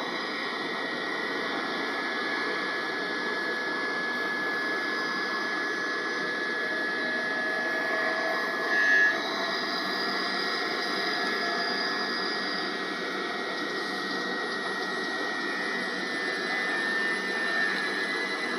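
Electric multiple unit train moving through the station, its traction motors giving a steady electric whine over running noise, with one tone slowly rising in pitch partway through. A short louder sound comes about nine seconds in.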